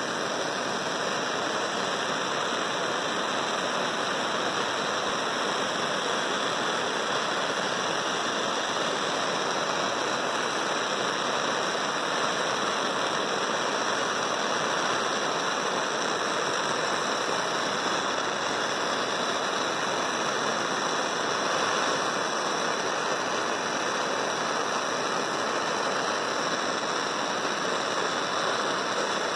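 Gas torch flame hissing steadily at an even level.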